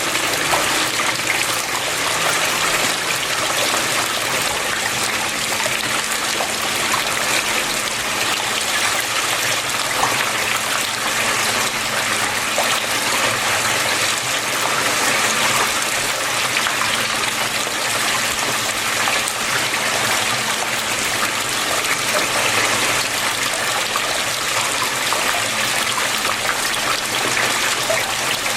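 Water flowing and trickling steadily, an unbroken rushing splash with a faint steady low hum underneath.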